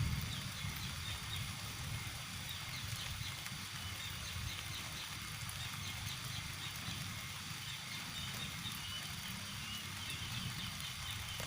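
Small birds chirping in short, repeated high notes, over a steady low rumble.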